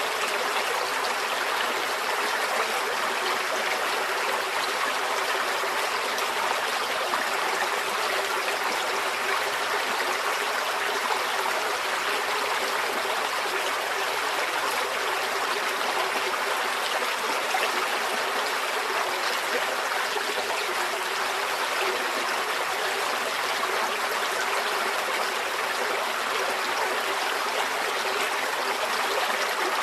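Forest stream flowing steadily over rocks, a continuous even rush of water with trickling.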